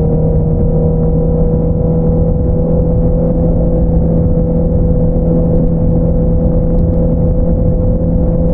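2022 Honda CBR650R's inline-four running through an Akrapovič single-outlet exhaust, held at steady revs with an even, unchanging exhaust note.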